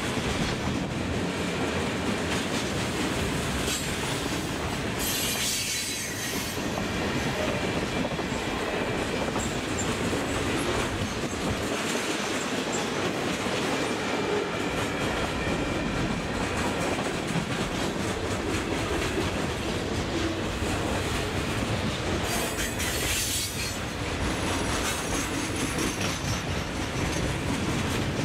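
Loaded freight cars rolling past at close range: a steady rumble and clatter of steel wheels on the rails, with two stretches of high-pitched wheel squeal, about five seconds in and again a little past twenty-two seconds.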